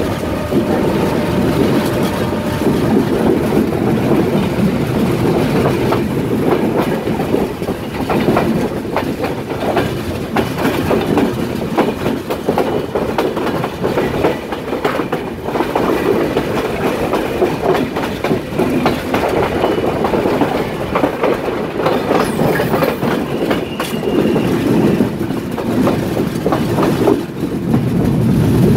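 Train rolling past, its wheels clattering steadily over the rail joints with a continuous rumble.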